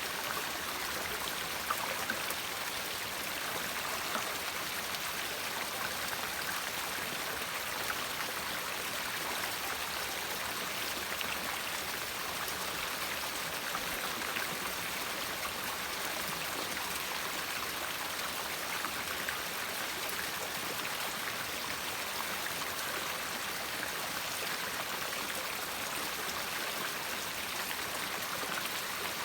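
A river flowing steadily: an even, unbroken rush of water with faint small splashes.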